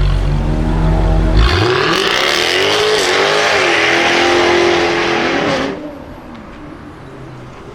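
Jaguar F-Type R's supercharged V8 accelerating hard: a low rumble gives way about a second and a half in to a loud rising engine note that climbs and dips in pitch, with a strong hissing rush over it. It drops off sharply near six seconds, leaving a much quieter background.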